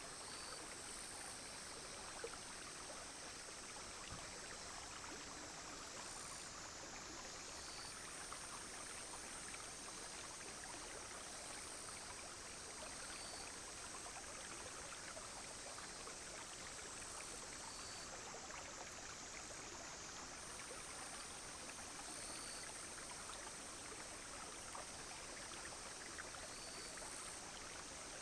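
A small clear stream flowing steadily over stones, with a high, steady drone of cicadas and insects that breaks off briefly a couple of times, and faint repeated insect chirps.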